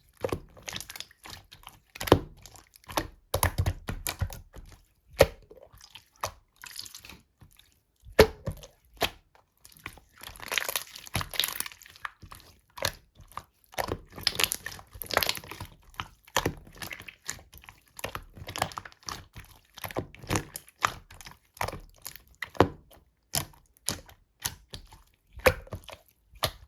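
Slime being squished, poked and stretched by hand: a steady stream of irregular sticky clicks, pops and short squelches, some in quick clusters.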